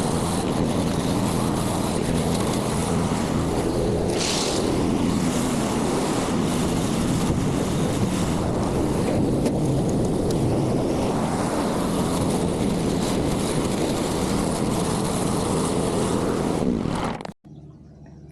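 A compact construction machine's engine running steadily, with a brief hiss about four seconds in; the sound cuts off abruptly near the end.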